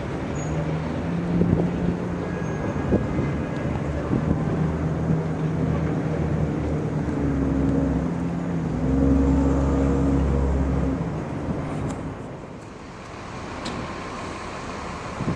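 CTA rapid-transit train moving off: its electric motors hum with several steady tones over a low rumble of wheels on rail, with a few sharp clicks. The rumble swells a few seconds before the end, then about 12 seconds in the train sound gives way to quieter steady background noise.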